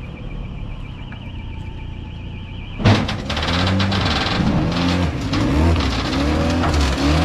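Citroën C3's engine revving again and again, each rev rising and falling in pitch, as the car is driven up onto a flatbed recovery truck's bed. It starts suddenly with a thump about three seconds in, after a quieter steady running hum.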